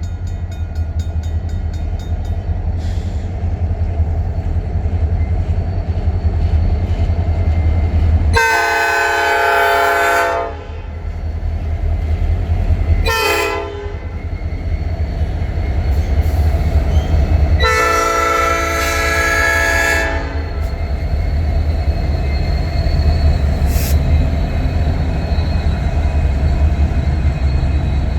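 Norfolk Southern diesel locomotive air horn sounding a long, a short and a long blast, the pattern of a grade-crossing signal, over the steady low rumble of the diesel locomotives' engines.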